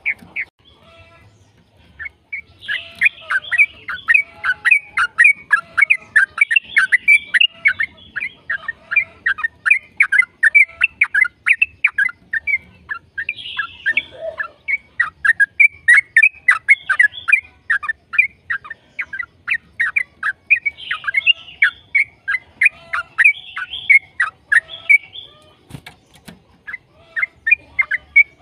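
Yellow-vented bulbul (trucukan) singing a long, rapid run of short chirping notes, several a second, with brief breaks, then pausing and starting again near the end.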